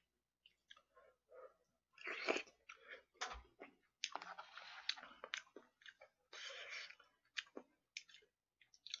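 Close-miked chewing and mouth sounds of a person eating, in irregular bursts with some sharp clicks.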